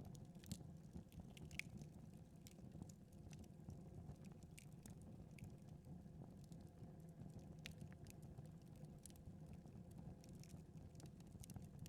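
Faint crackling of a fire in a fireplace: small pops and snaps at irregular intervals over a low steady hum.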